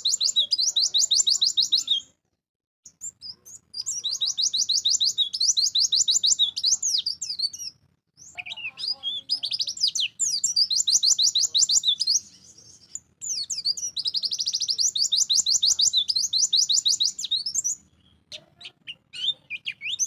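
White-eye (pleci) in full song: long runs of rapid, high-pitched trilled notes in four bursts of a few seconds each, with short pauses between. Near the end the song breaks into scattered short chirps.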